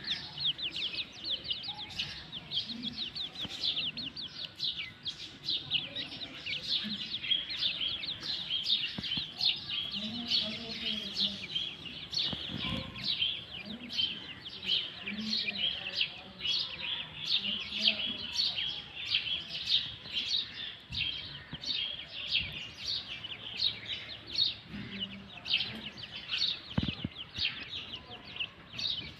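A group of young francolin chicks peeping continuously: a dense stream of short, high, downward-sliding peeps, with occasional short low calls underneath.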